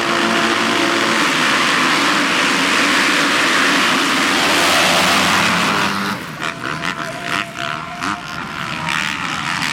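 A pack of motocross bikes at full throttle off the start, a dense loud roar of many engines; about six seconds in it drops and wavers, leaving one engine's tone standing out.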